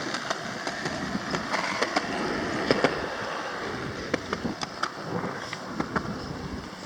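Wheels rolling steadily over pavement, with frequent sharp clicks and rattles scattered through.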